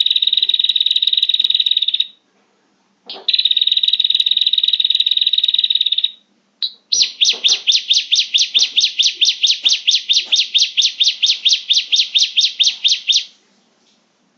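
Recorded prinia (prenjak) calls used as a trapping lure: two long, fast, buzzy trills, then a long run of sharp repeated notes at about six a second that stops shortly before the end.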